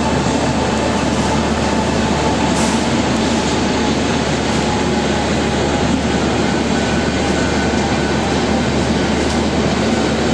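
Double-decker express train running on the rails: a steady, unbroken rail noise with no change over the few seconds.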